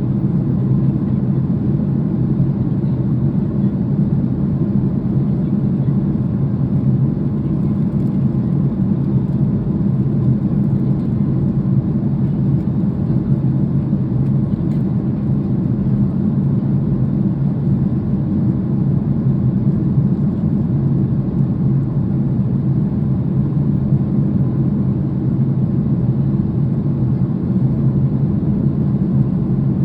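Boeing 737 cabin noise in flight: the jet engines and airflow make a steady low rumble with no change in level.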